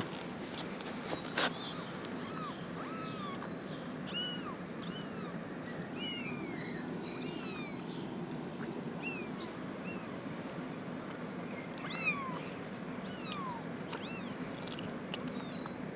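Young kittens mewing over and over in short, high-pitched cries. The kittens have lost their mother. Two sharp knocks, one about a second and a half in and one near twelve seconds, sound over a steady low background noise.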